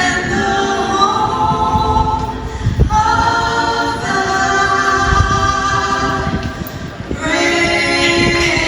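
A group of voices singing a cappella, holding long chords that change every second or two.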